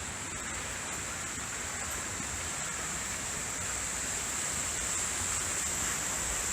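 Steady rush of a waterfall, an even noise that grows slightly louder, with a steady high hiss above it.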